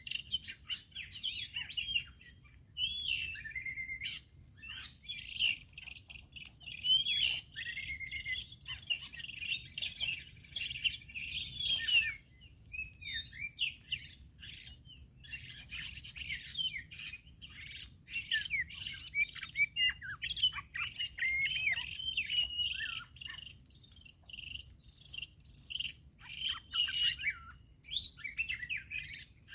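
Songbirds chirping and singing in rapid, overlapping whistled phrases and chatter, pausing briefly now and then. A faint steady high whine runs underneath.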